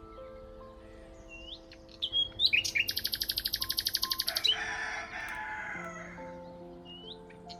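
Birds singing over soft, sustained ambient music notes: a few short upswept chirps, then a fast, even trill lasting about two seconds in the middle, followed by a harsher chattering call and another chirp near the end.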